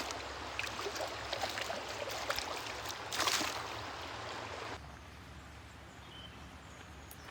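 Mountain creek running, with a louder swell a little past three seconds in. About five seconds in the sound drops sharply to a fainter steady hiss.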